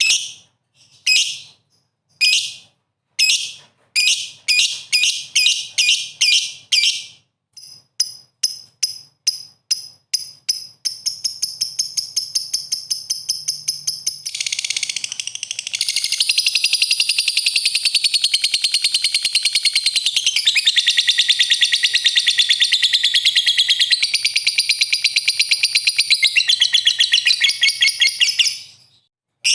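Songbird call: high, evenly spaced piping notes that speed up and run into a fast trill, then a long, rapid, dense chattering song that stops just before the end. It is a call used to provoke fighting songbirds into answering.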